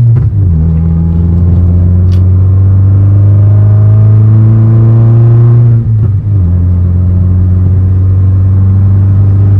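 A stage-2 ECU-remapped Suzuki Baleno's petrol engine pulling under acceleration, its pitch climbing steadily for about six seconds. The sound then breaks off briefly and comes back at a lower, steady pitch.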